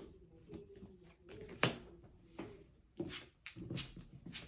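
Trading cards being handled and set down on a play mat: scattered soft taps and clicks, the sharpest about one and a half seconds in and several more near the end.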